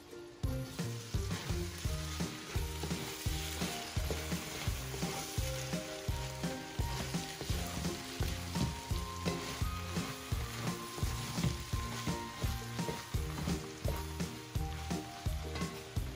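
Rice and diced carrots sizzling as they fry in a large aluminium pot, stirred with a wooden spatula in repeated strokes.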